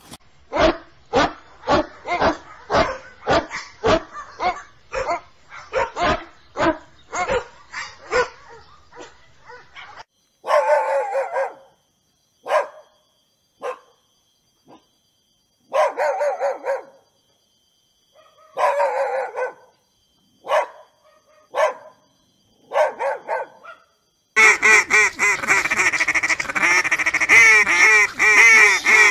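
Pigs grunting in a steady run, about two grunts a second, fading out after about eight seconds. Then a puppy barks in short, separate bouts. Near the end a dense chorus of gulls and ducks calling takes over.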